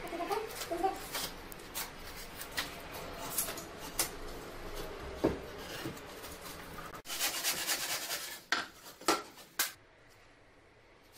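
Metal hand tools scraping and clinking on hard material, with irregular sharp taps and rubbing. It grows dense for about a second after a sudden break midway, then turns quieter near the end.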